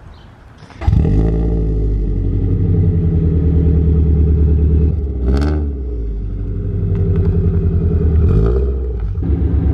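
Subaru BRZ's flat-four engine started about a second in and running with a pulsing exhaust note, blipped once in a quick rev about halfway.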